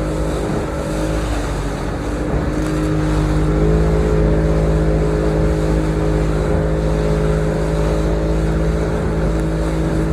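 Motorboat engine running steadily at cruising speed, a constant hum with a heavy low rumble and rushing noise over it; the pitch dips slightly about a second in, then holds steady.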